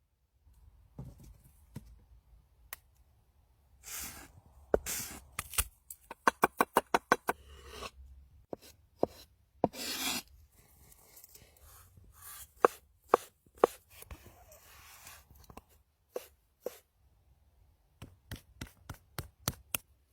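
Knife chopping food on a cutting board: single strokes and quick runs of about eight chops a second, with a few scraping sounds between.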